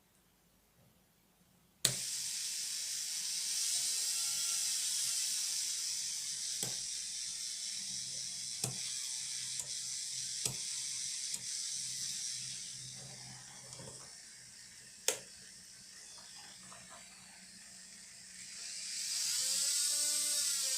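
Electric manicure nail drill (e-file) handpiece, a 100 W, 45,000 rpm unit, switched on with a click about two seconds in and running with a high-pitched whine and scattered clicks. It slows and quietens around the middle, then speeds up again near the end.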